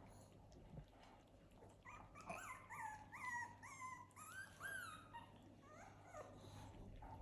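Puppies whimpering: a run of short, high-pitched whines that bend up and down in pitch, starting about two seconds in and fading after about five seconds.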